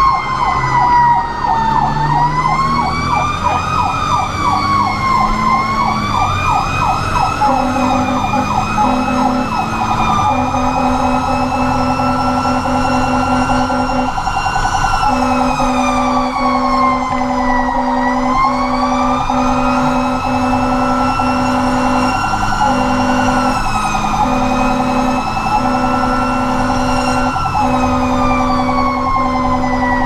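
Fire engine responding: its siren wails, slowly rising and falling, with a faster yelping sweep in the first several seconds, and from about seven seconds in the horn is sounded in a long run of short and long blasts over the truck's engine.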